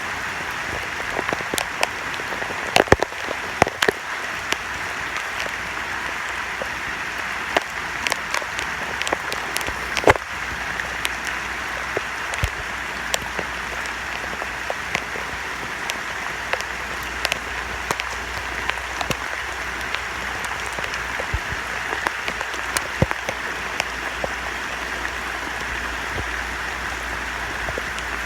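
Heavy, sustained rain: a steady hiss of falling rain with frequent sharp taps of drops striking close by.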